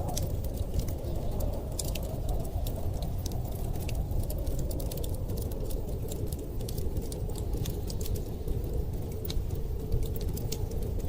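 Wood fire crackling, with many small sharp pops scattered throughout, over a steady low rumble of blizzard wind.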